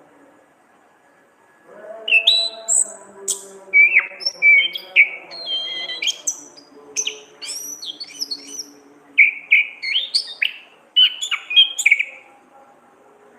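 Orange-headed thrush (anis kembang) singing a quick, varied run of whistled and chattering phrases. It starts about two seconds in and stops shortly before the end.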